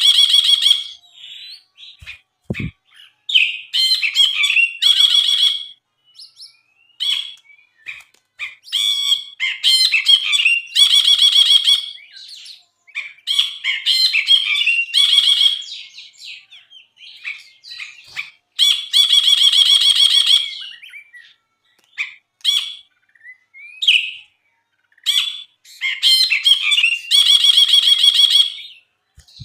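Brinji, a bulbul kept as a songbird, singing a loud, chattering song: phrases of rapid trills and sharp chirps, each a second or two long, repeated with short pauses between.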